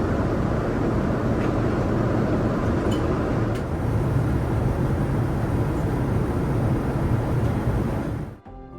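Steady rushing noise of a Boeing 787-9 airliner in flight or on the runway: engine and airflow noise, low and even, with a few faint ticks. It cuts off abruptly near the end.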